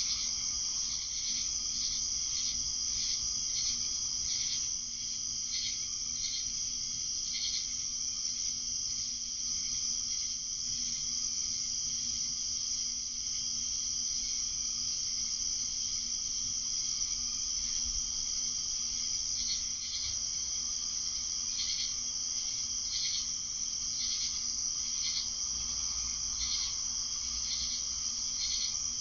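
Night insect chorus: a steady high-pitched cricket trill, with short repeated chirps coming and going over it.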